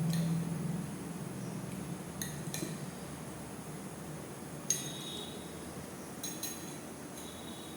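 A few light clinks of a utensil against a metal plate or bowl while eating, with a brief high ringing after each. The loudest clink comes just before the middle.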